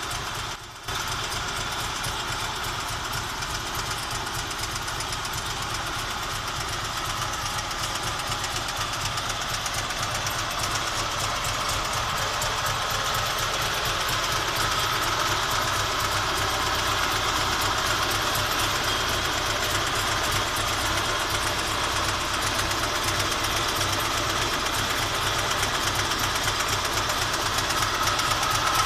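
1962 Panhard PL17 Tigre's air-cooled flat-twin engine idling steadily.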